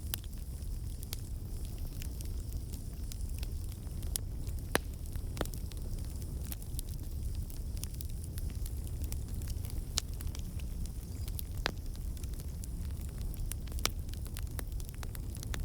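Campfire burning: a steady low rumble of the flames with scattered sharp crackles and pops, a few of them louder than the rest.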